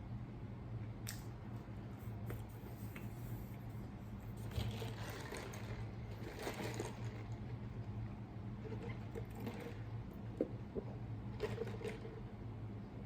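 Close-miked eating sounds: a person chewing with wet, squishy mouth noises and scattered small clicks, loudest around the middle. A steady low hum runs underneath.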